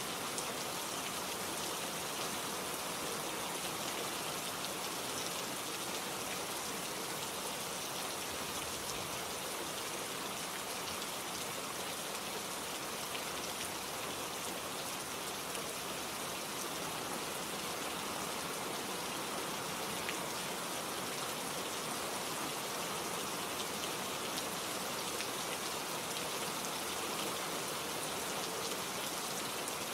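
Steady rain falling, drops pattering on leaves and surfaces in an even hiss with fine individual drop ticks.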